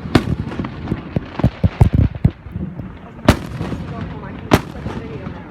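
Fireworks going off: a bang right at the start, a quick run of smaller pops about two seconds in, then two big booms about a second apart.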